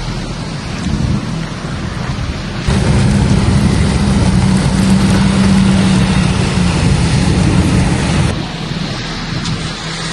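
Thunder rumbling low over steady rain from a strong thunderstorm. A louder stretch of rumble and rain starts suddenly about three seconds in and cuts off just as suddenly about two seconds before the end.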